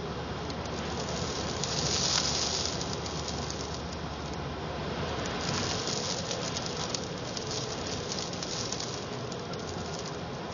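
Sandstorm wind gusting against the house, with sand and grit pattering on the windows; the gusts swell about two seconds in and again around six seconds.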